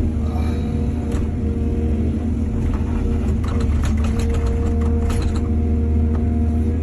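Excavator's diesel engine running steadily, with a run of clatters and knocks over a few seconds in the middle.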